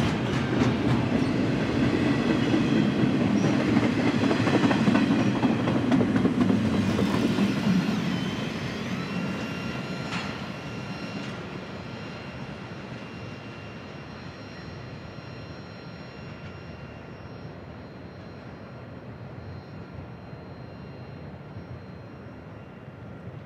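BNSF double-stack intermodal train's wagons rolling past with a clatter of wheels on the rails. The sound fades steadily after about eight seconds as the tail end moves away. A faint, steady high whine lingers through the second half.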